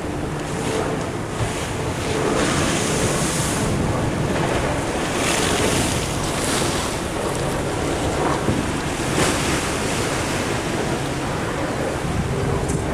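Ocean surf washing in, with wind on the microphone; the hiss of the wash swells up a few times.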